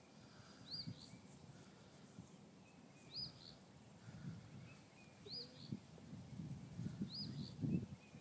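A bird chirping, a short double note repeated about every two seconds, over the soft scraping and rustling of a hand working loose soil in a small hole in dry lawn grass, which grows louder near the end.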